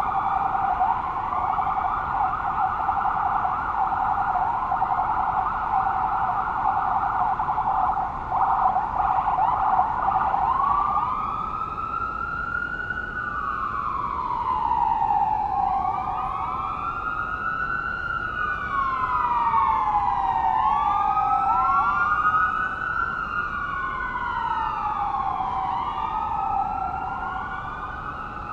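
Police car sirens: a fast yelp for about the first ten seconds, then slow rising-and-falling wails from more than one siren sounding at once and out of step.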